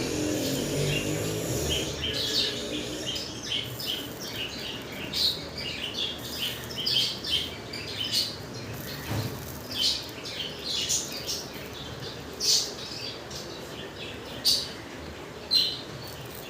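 Small birds chirping repeatedly, short high chirps coming every second or so, over a low steady background.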